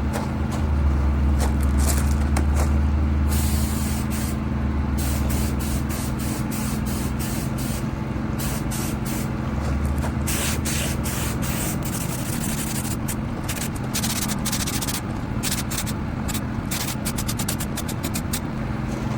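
Paint spray gun hissing in repeated short bursts as silver base coat goes onto a bumper, over a steady low hum.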